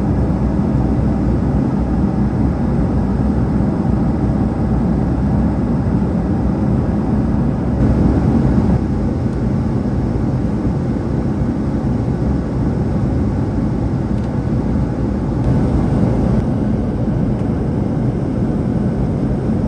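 Steady airplane cabin noise in flight: the constant rush of engines and airflow.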